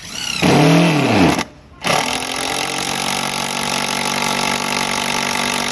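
Makita TD0101F corded impact driver running in two bursts: a short burst of about a second that rises and then falls in pitch, then after a brief stop a steady run of about four seconds.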